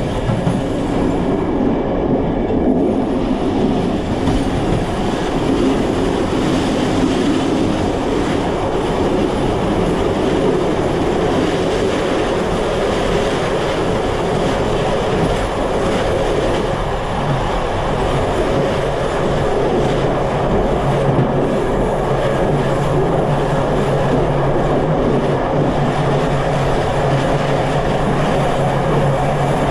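Passenger train running at speed on mainline track: a steady, loud rumble of wheels on rails. A low hum comes in about halfway.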